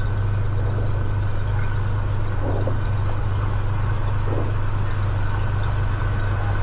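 Cessna 182 Skylane's piston engine idling at a steady low drone, heard from inside the cabin.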